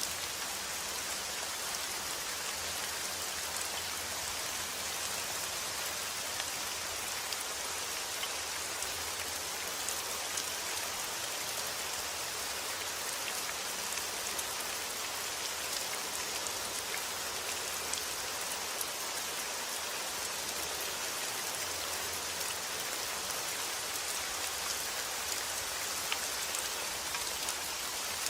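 Steady rain falling on a surface: an even hiss of many fine drops, with small individual drop ticks scattered through it.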